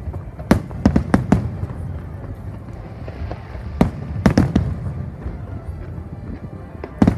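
Aerial fireworks shells bursting in a series of sharp bangs over a steady low rumble. Four bangs come close together in the first second and a half, one comes near four seconds in, two follow just after it, and one more comes near the end.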